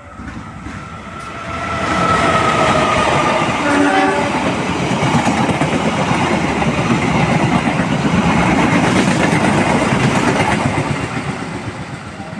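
Passenger train passing close by at speed, a loud rush of wheel and rail noise that builds, holds for about nine seconds and fades near the end. A horn sounds at the start, its pitch sagging slightly, and gives a short note about four seconds in.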